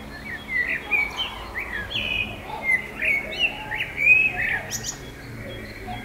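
A bird singing a varied run of quick, sliding high notes for about four and a half seconds, loudest near the end of the phrase.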